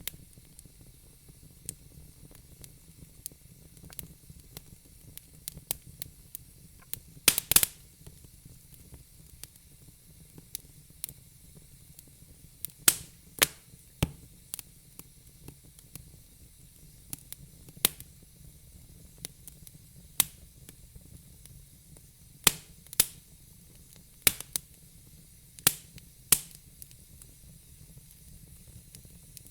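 Wood fire in a fire pit crackling, with irregular sharp pops over a low hiss; a quick cluster of loud pops about seven seconds in and more scattered pops later on.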